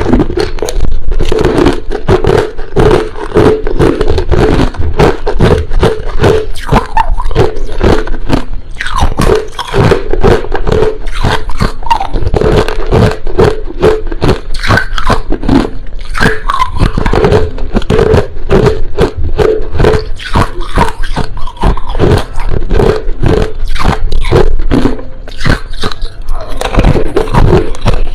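A person biting and chewing crushed ice close to the microphone: rapid, continuous crunching, several crunches a second.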